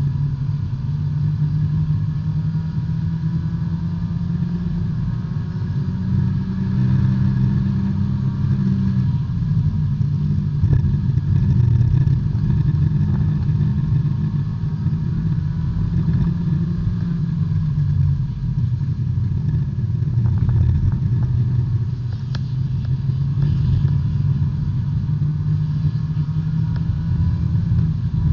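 B-Spec subcompact race car's four-cylinder engine heard from inside the cockpit under racing load, its drone stepping up and down in pitch as the revs change through gears and corners.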